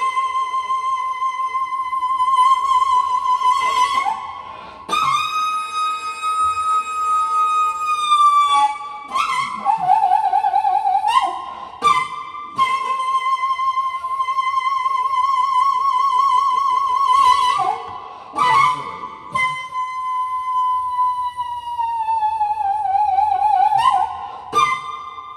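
Solo daegeum, the Korean transverse bamboo flute, playing a slow improvised melody. Long held notes with a wide, wavering vibrato are broken by short pauses between phrases, and one note sinks slowly in pitch near the end before jumping back up.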